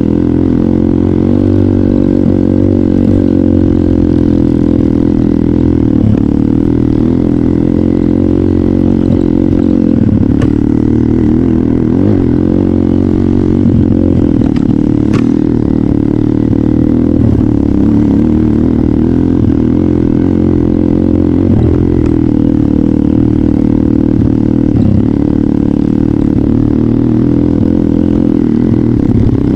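Trail motorcycle engine running steadily under a rider, its pitch rising and falling a little with the throttle, with a couple of brief clicks about halfway through.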